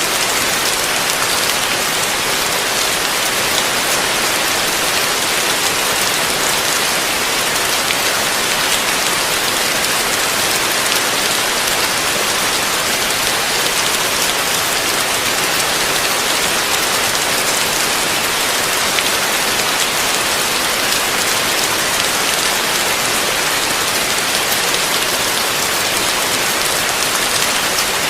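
Heavy rain falling steadily, an even dense hiss of drops on surfaces with no let-up or change.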